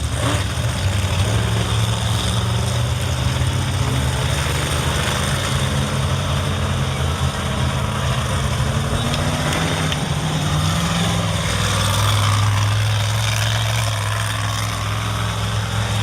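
Monster truck engines running at a steady low idle, their deep tone shifting slightly in pitch about ten seconds in.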